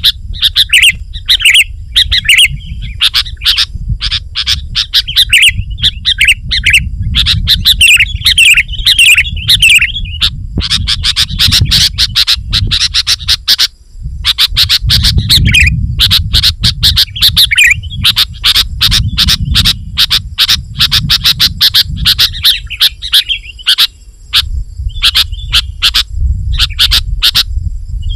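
Sooty-headed bulbul (kutilang) singing energetically: bubbling, warbling phrases at first, then a fast, unbroken run of sharp chirps from about ten seconds in. A low rumble runs underneath.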